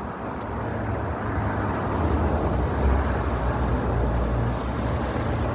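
Road noise while cycling beside a road: a steady low rumble of passing traffic mixed with wind, swelling slightly in the middle, with one short click about half a second in.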